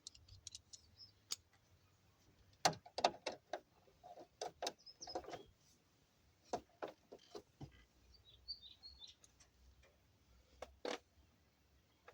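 Irregular sharp clicks and knocks of small tools and parts being handled, in clusters of several quick taps. Faint bird chirps come in the background, mostly in the second half.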